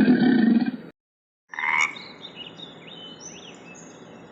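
A loud, low animal sound cuts off about a second in. After a brief silence comes a single short animal call, over faint bird chirps.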